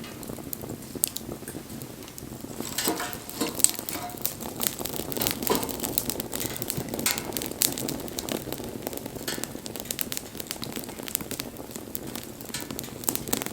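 Wood fire crackling with many sharp pops; the crackling grows denser about three seconds in.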